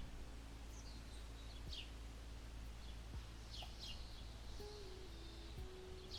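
Small birds chirping in short, high, downward-sliding calls, a handful of times, over a steady low rumble of outdoor background.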